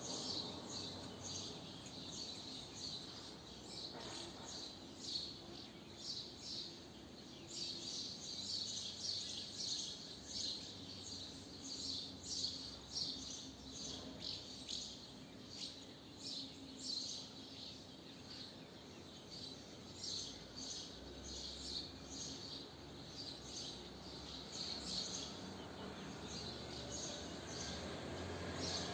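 Swallows twittering: a busy, continuous stream of short, high chirps over faint steady background noise.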